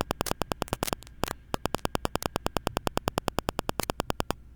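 Razer Seiren X USB microphone crackling: a rapid, even train of sharp clicks, about nine a second, with a short break about a second in. It is interference that the uploader traces to the laptop's Wi-Fi Direct virtual adapter being enabled while the mic is near the laptop.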